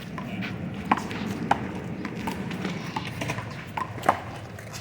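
A one-wall handball rally: a rubber handball smacks off players' hands and the wall. Three loud cracks, about a second in, half a second later and near the end, stand among lighter taps. Under them runs a steady low rumble.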